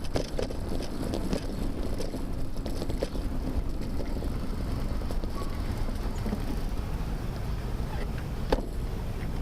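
Steady low rumble of wind and road vibration on a bicycle-mounted camera while riding, with scattered faint clicks and a sharper knock about eight and a half seconds in.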